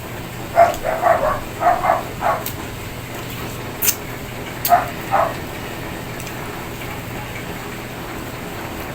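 A dog barking in short bursts: a quick run of barks in the first couple of seconds, then two more a few seconds later.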